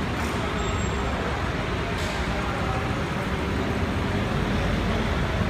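Bentley Continental GT's engine running low and steady as the car rolls slowly past at walking pace, growing slightly louder near the end.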